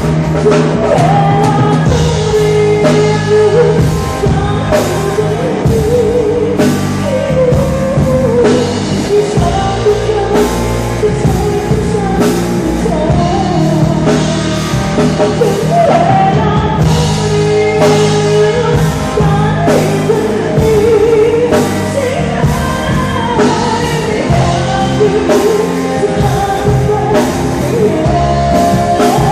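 A band playing a song with a sung melody over guitar and a steady drum-kit beat.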